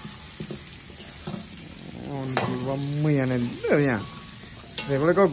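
Meat frying in a large wok, sizzling with a steady hiss as it is stirred. A voice comes in over it from about two seconds in and again near the end.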